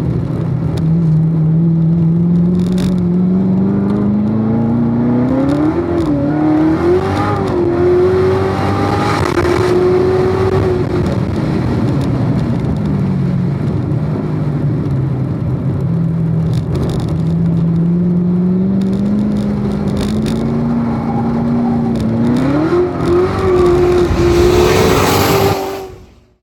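A car's engine running at speed on a lapping session. Its pitch climbs under acceleration, wavers briefly, holds, falls away as the car slows, then climbs steadily again, over a steady hiss. The sound cuts off abruptly near the end.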